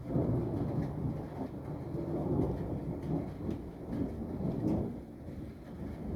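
Thunder in a storm: a low rolling rumble that breaks in suddenly at the start, swells and eases in waves, dips about five seconds in, then builds again.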